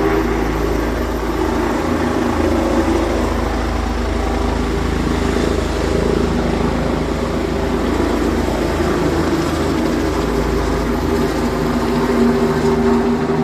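Helicopter running steadily: a level engine whine over a low pulsing beat from the rotor.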